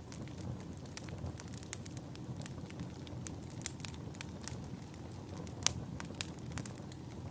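Wood fire burning in a fireplace: a steady low rumble of flame with irregular sharp crackles and pops of burning logs, one louder pop a little under six seconds in.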